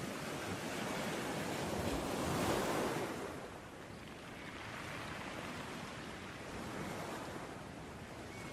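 Ocean surf: waves breaking and washing ashore, one wave swelling to its loudest about two and a half seconds in, then settling back into a softer, steady wash.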